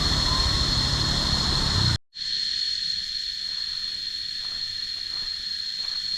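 Jungle insect chorus: a steady, high-pitched drone. A low rumble runs under it for the first two seconds, then the audio drops out for an instant and the drone continues on its own.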